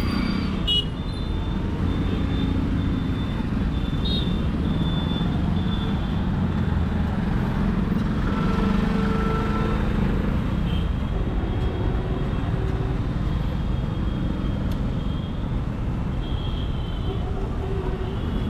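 Royal Enfield Continental GT 650's 648 cc parallel-twin engine running steadily through its exhaust on the move in traffic, swelling a little about halfway through.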